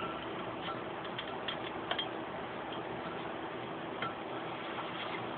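Scattered light clicks and taps of small metal parts and a screwdriver against an amplifier's circuit board as it is worked back into place, over a steady faint hiss and hum.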